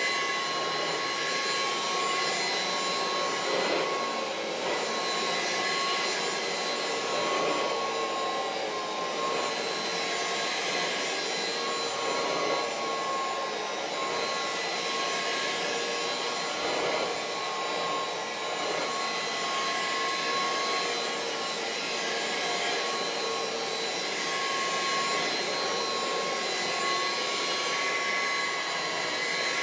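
Kirby Heritage II upright vacuum cleaner running steadily while vacuuming, its motor giving a constant high whine over a rushing airflow, with gentle swells every few seconds as it is pushed and pulled.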